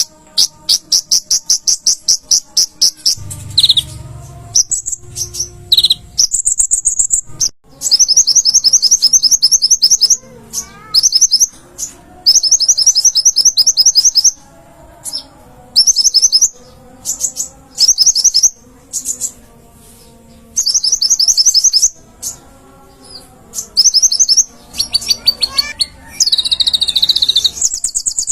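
Konin (kolibri ninja, the olive-backed sunbird) singing loudly: very rapid, high-pitched trills in bursts of one to two seconds with short pauses between them, and a few single higher notes.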